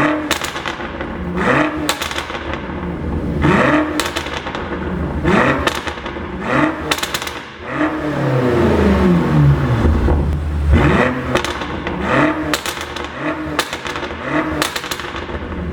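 BMW F90 M5's twin-turbo V8 being blipped over and over. Each rev is followed by a string of pops and crackles from the exhaust as the throttle closes, the sound of a pop-and-bang tune. One rev near the middle is held a little longer.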